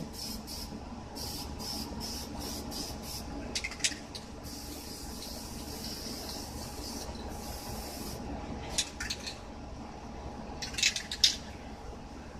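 Aerosol spray paint can spraying in a series of short hissing bursts, with a longer spray of about two and a half seconds near the middle.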